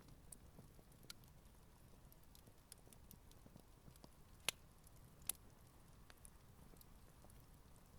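Campfire burning quietly, its wood crackling in scattered small pops, with two sharper pops about halfway through.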